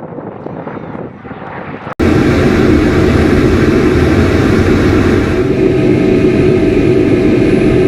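Faint wind noise, then after an abrupt cut about two seconds in, a loud, steady aircraft engine drone.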